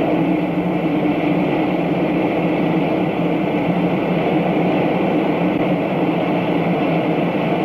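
Gas burners burning steadily as they heat a steam locomotive's steel driving-wheel tire, expanding it for a shrink fit onto the wheel center.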